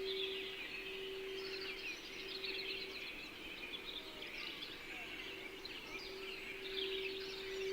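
Many small birds chirping and twittering, over a steady singing bowl tone that fades out about three seconds in and swells back from about five seconds.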